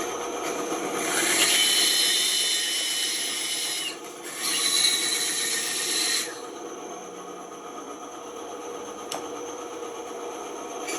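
A tool working wood in two long rasping passes over the steady whine of a running machine, the second pass stopping about six seconds in.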